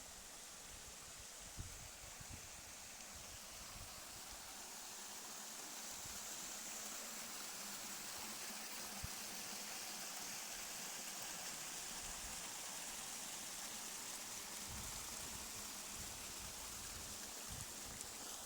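A steady, high rushing hiss of outdoor ambience that grows a little louder about five seconds in, with a couple of faint clicks.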